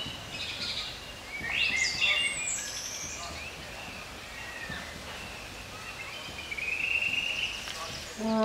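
Birds chirping and singing over a low, steady outdoor background, with a few quick rising calls about two seconds in. A held musical note comes in at the very end.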